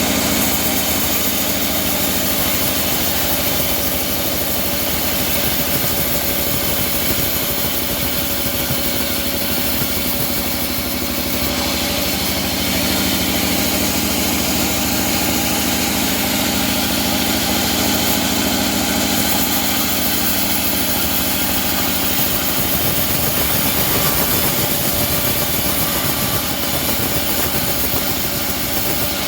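Homemade engine-driven bandsaw mill running steadily while sawing a teak log, its engine and blade giving a constant hum with several steady tones.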